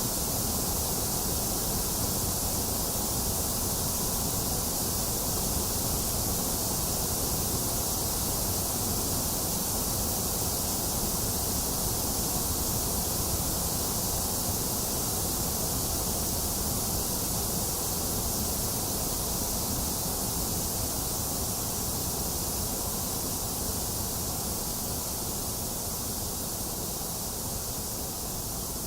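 Steady white noise: a continuous, even hiss, bright in the treble, with no rhythm or events, easing slightly in level near the end.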